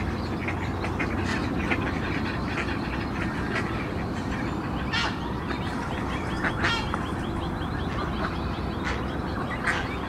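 Short waterbird calls, a handful of them, over a steady low rumble.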